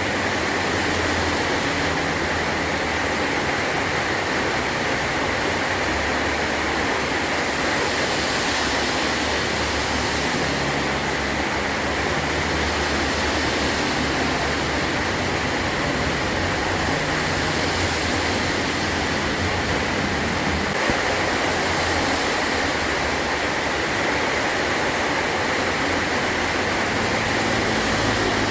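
Heavy rain drumming steadily on a metal roof, a dense unbroken hiss with a low, shifting rumble beneath it.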